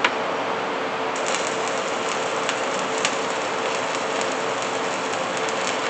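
Welding arc crackling and sizzling steadily as a weld bead is run, over a steady hum.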